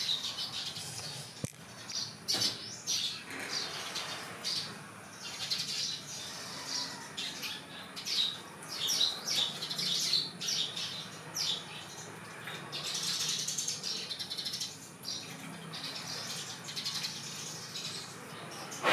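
Small birds chirping and squawking in many short, high-pitched calls, over and over.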